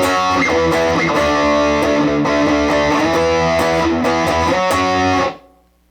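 Electric guitar played through a Positive Grid Reactor 50 combo amp on its Extreme channel, heat at neutral, with only a noise gate and reverb on: a passage of held chords that cuts off abruptly about five seconds in.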